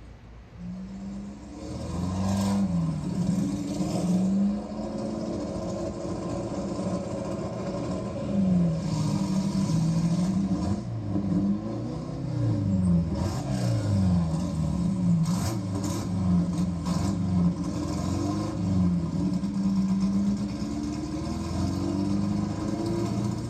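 De Tomaso Pantera GT4's Ford V8 engine revving hard, its pitch climbing and dropping again and again through the gears. It grows louder over the first couple of seconds, with a few sharp cracks along the way.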